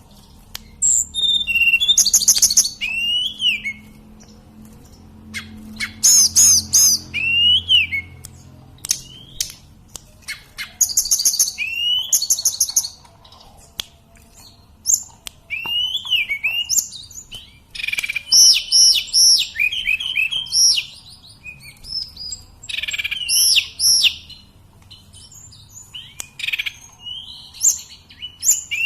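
Tledekan gunung (sulingan gunung) singing in repeated phrases every few seconds. Each phrase mixes quick runs of high notes with slurred whistles that rise and fall.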